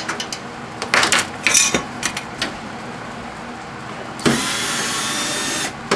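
Metal parts and wiring of a microwave oven being handled during dismantling: a run of sharp clicks and rattles, then a steady rasping noise for about a second and a half, ending in a click.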